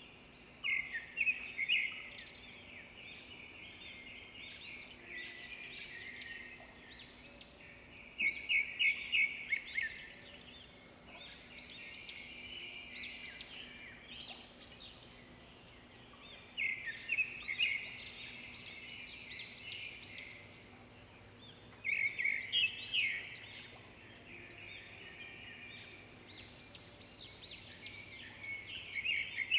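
Small birds chirping in busy bursts of quick, high calls, about five bursts several seconds apart with softer chirps between, over a faint steady low hum.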